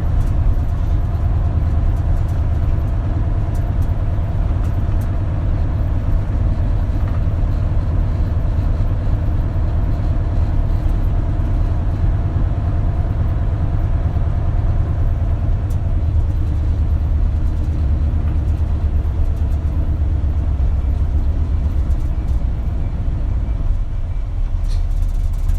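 Diesel engine and drivetrain of an Isuzu Erga KL-LV280L1 city bus running steadily under way, heard from the passenger cabin as a constant low rumble.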